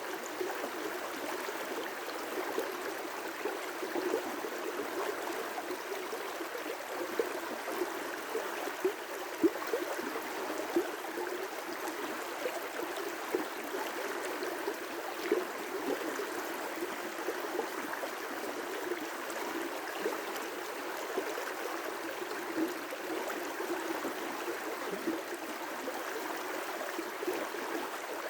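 River rapids: water rushing and splashing over rocks in a steady roar, with irregular small splashes and gurgles.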